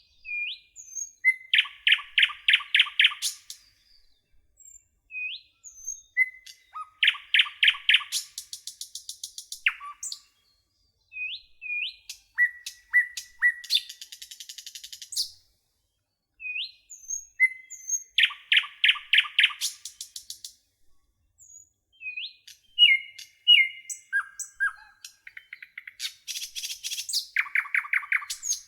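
Nightingale singing: phrases a few seconds long, each opening with a short whistle and a fast run of loud repeated notes, then a buzzy trill, with brief pauses between phrases.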